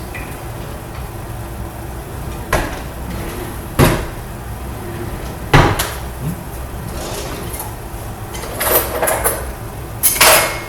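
Kitchen cupboard doors and drawers being opened and shut while rummaging for a utensil: a series of sharp knocks and clacks, single ones every second or two, then a quicker cluster near the end, over a steady low hum.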